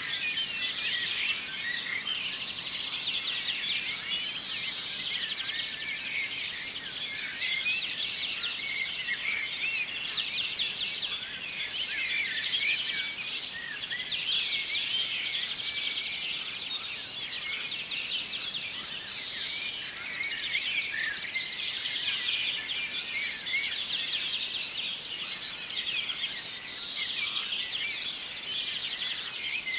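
Morning chorus of many songbirds singing at once: dense, overlapping chirps and trills.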